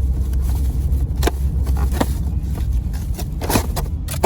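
Car driving, a steady low rumble of engine and road noise heard inside the cabin, with a few short scrapes and clicks over it.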